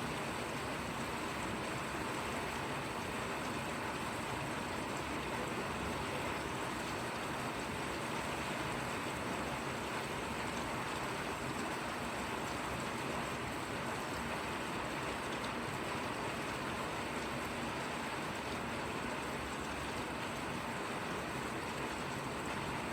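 Steady rain falling: an even, unbroken hiss of drizzle.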